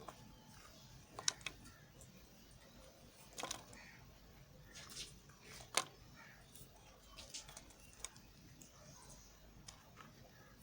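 Knife cutting soft white soap: a series of irregular crisp clicks and short scraping cuts, about a dozen, the sharpest a little over a second in and near the middle.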